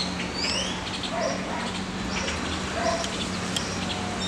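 Small birds chirping: a quick run of rising high chirps in the first half second, then scattered short high notes, over a low steady hum.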